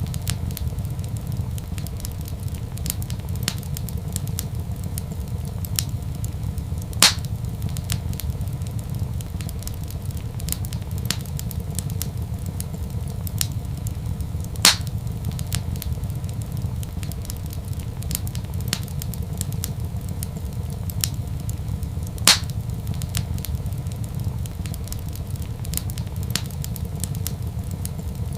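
Wood fire in a fireplace crackling, with many small snaps over a steady low rumble and three sharper, louder pops spaced about seven to eight seconds apart.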